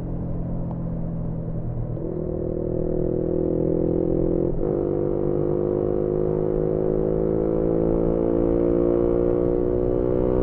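Yamaha MT-125's single-cylinder engine with an aftermarket GPR exhaust running under load while riding. There is a brief break about four and a half seconds in, as at a gear change, and then the engine note climbs steadily as the bike accelerates.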